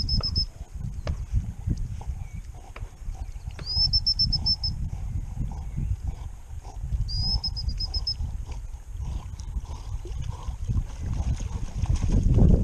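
Uneven low rumbling and rustling noise, over which a small bird calls three times, each call a quick rising note that runs straight into a short fast trill.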